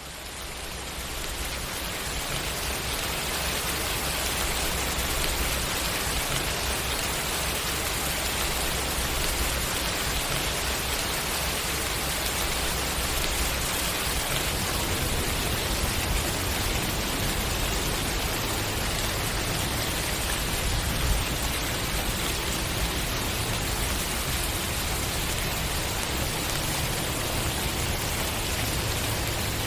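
Steady rain falling, fading in over the first couple of seconds and then holding an even hiss, with one slightly louder drop about two-thirds of the way through.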